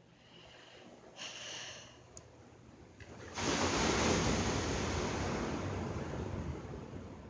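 A rush of surf and wind noise starts suddenly about three seconds in and slowly dies away, after a few faint higher-pitched sounds.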